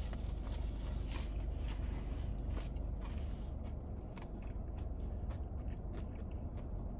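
A person biting and chewing a fried chicken tender, with short crunching clicks that come more often in the first half, over a steady low hum.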